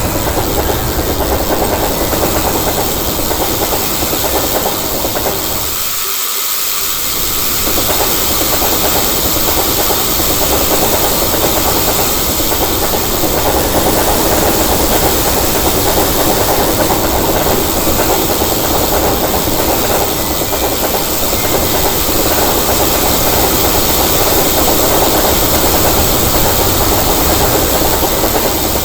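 Train passing at length: steady loud rushing and rail noise with a hiss over it, the low rumble dropping away briefly about six seconds in.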